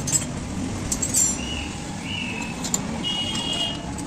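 Steady street traffic hum with a few sharp clicks and several short, high-pitched chirps.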